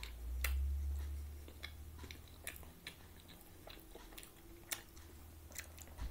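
A person chewing a bite of pizza close to the microphone, with short wet mouth clicks and smacks scattered throughout. A low rumble sounds in the first second or so.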